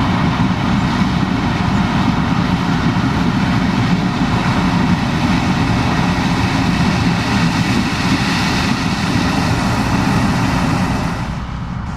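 Case IH 2366 combine harvester running steadily under load, a dense engine and machinery noise; it drops in level about 11 seconds in.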